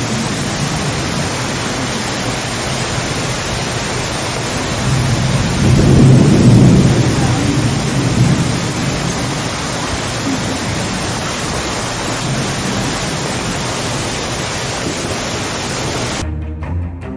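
Heavy rain falling steadily, with a roll of thunder that swells to the loudest point about six seconds in and fades over a couple of seconds. The rain stops abruptly near the end, where music with low bowed strings comes in.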